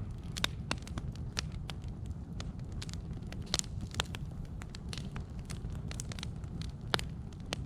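Fire crackling: irregular sharp pops and snaps over a steady low rumble, with a few louder pops about half a second in, around three and a half to four seconds, and near seven seconds.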